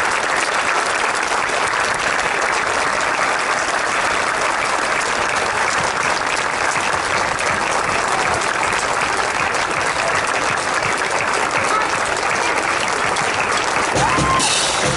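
Large crowd applauding, a steady, sustained clapping.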